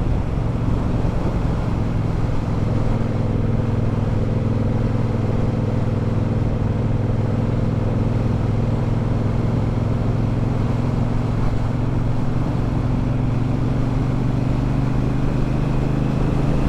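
Triumph Bobber's 1200 cc parallel-twin engine running steadily while the bike is ridden, its pitch rising a little near the end as it picks up revs.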